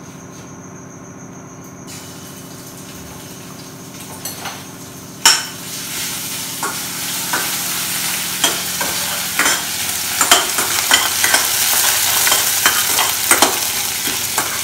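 Ginger-garlic paste going into hot oil in a stainless-steel kadai: after a quiet start there is a sharp knock about five seconds in, then the oil starts to sizzle. The hiss grows steadily louder while a steel spatula stirs and clicks against the pan.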